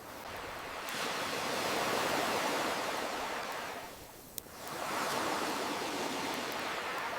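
Ocean waves washing in and drawing back in slow swells, dipping briefly about four seconds in, with a few sharp crackles from a campfire, the loudest pop just after the dip.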